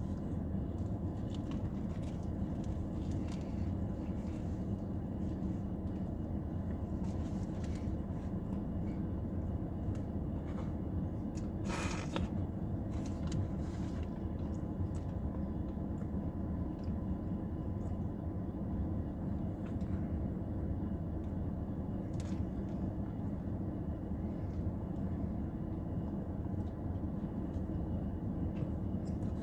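Steady low rumble, with a few faint clicks and a brief rustling noise about twelve seconds in.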